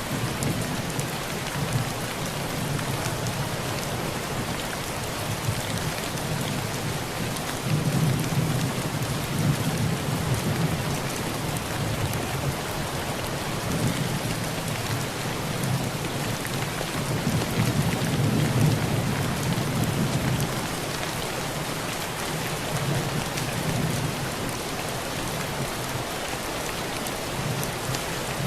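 Heavy rain pelting a thin tin roof as a steady dense patter, with rolling thunder rumbling low twice.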